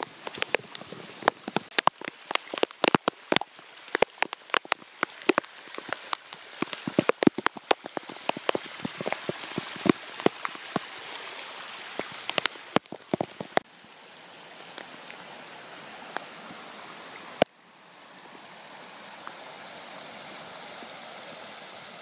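Heavy rain, drops spattering close by in many sharp taps. About 13 seconds in it gives way to the steady rush of flowing floodwater, broken once by a single click.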